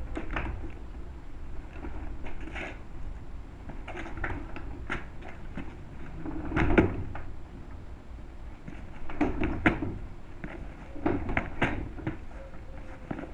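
Handling noise: scattered clicks, knocks and rattles of a lamp fitting being worked at by hand while someone tries to close it, with the loudest knock about seven seconds in.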